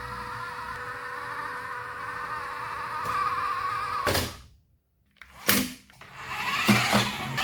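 Small electric motor of a toy RC car whining steadily, cutting off abruptly about four seconds in; after a short pause there is a brief burst, then the whine starts up again near the end.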